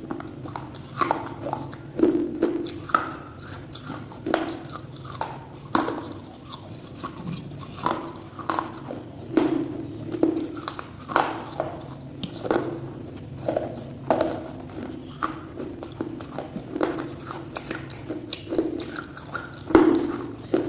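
A person biting and chewing something hard and crunchy close to the microphone, with irregular crunches about every second.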